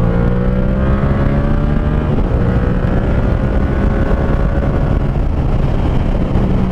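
Yamaha MT-07's parallel-twin engine through an SC Project Conic 2-in-1 exhaust with the baffle in, pulling under throttle while riding. Its pitch climbs gently for the first few seconds, then eases slightly.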